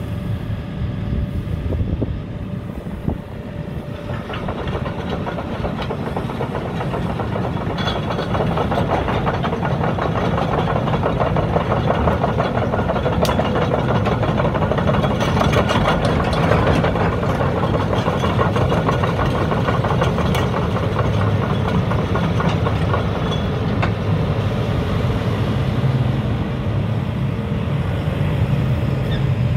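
A JCB JZ141 LC tracked excavator's 55 kW diesel engine running steadily. From about four seconds in, a dense mechanical clatter builds over it, loudest in the middle stretch, then eases off.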